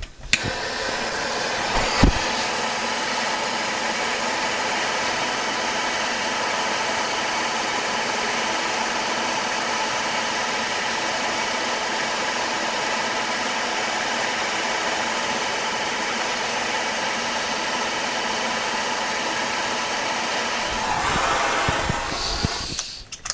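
A heating tool blowing steadily on a stud in a two-stroke engine part, heating it so the thread-locker lets go before the stud is removed. There is a sharp click about two seconds in, and the sound dies away near the end.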